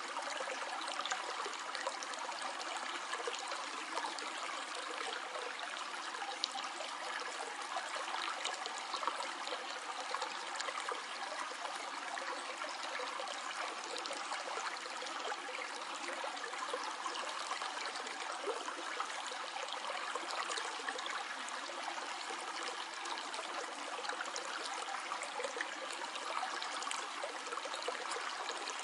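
Stream flowing steadily: a continuous rush of water with many small splashes and trickles.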